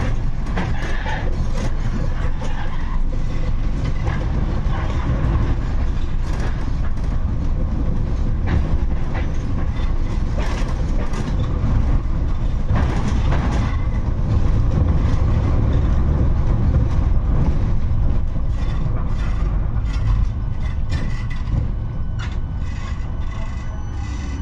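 71-628-02 tram running along the track: a steady low rumble of wheels on rails with frequent clicks and knocks. It eases off slightly near the end, with a faint falling tone.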